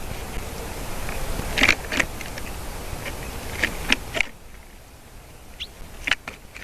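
Small birds visiting the nest make about eight short, sharp ticks and chips, irregularly spaced, over a steady wind hiss that drops off suddenly about four seconds in.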